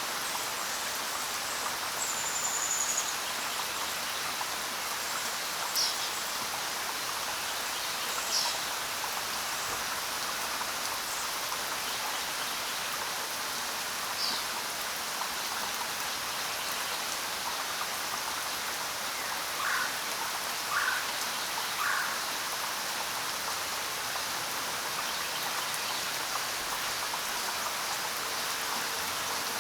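Steady rain falling, with scattered short bird calls over it: a high falling whistle about two seconds in, a few quick chirps, and later three short lower calls in a row.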